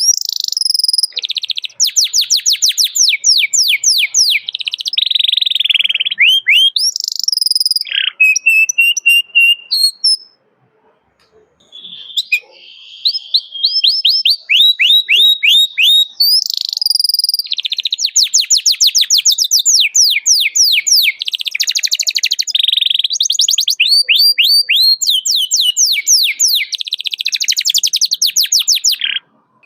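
Domestic canary song: loud, fast runs of repeated chirps, each sweeping down in pitch, strung into rolling trills. It breaks off briefly about ten seconds in and again just before the end.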